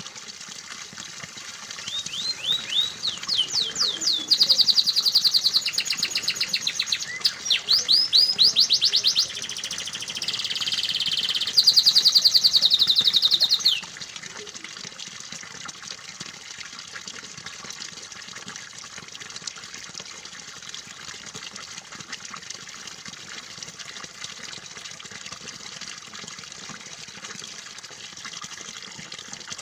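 Domestic canary singing a long song of fast trills and rapid repeated notes, beginning about two seconds in and cutting off suddenly about twelve seconds later, over a steady sound of running water.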